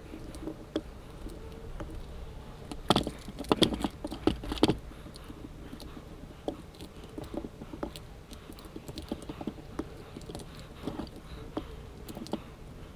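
Light clicks and snaps of cutters working on a lithium battery pack's BMS cables, with a burst of louder sharp clicks about three to five seconds in.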